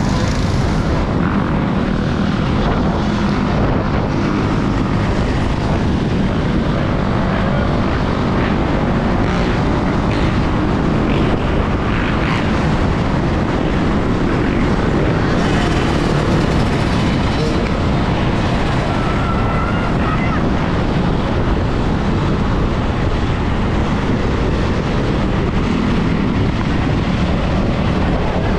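Steady rush of wind buffeting a GoPro microphone while riding a Sur-Ron electric dirt bike at speed.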